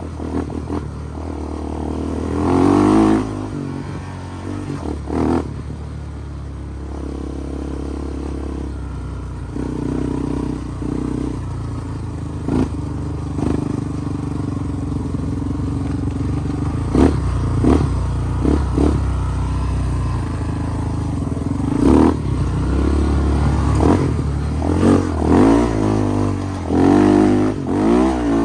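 Off-road vehicle engine running steadily, revved up in short bursts several times, more often toward the end.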